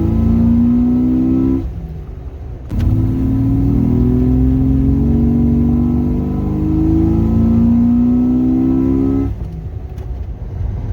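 Jeep Cherokee XJ's 4.0-litre straight-six accelerating through a Thrush glasspack muffler, a deep exhaust note with intake noise from a cowl intake. The pitch climbs, drops off for about a second near the two-second mark, then climbs steadily again for several seconds before easing off.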